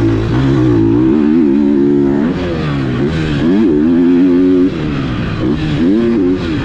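GASGAS MC 250F single-cylinder four-stroke motocross bike engine being ridden hard. The pitch rises and falls over and over with the throttle and gear changes, with a sudden drop in level a little over halfway through.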